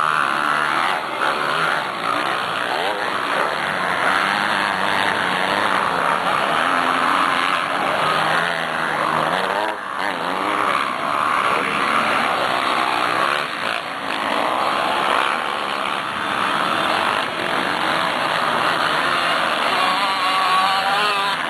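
Several motocross bikes racing, their engines revving up and down at once, so that many pitches rise and fall over one another.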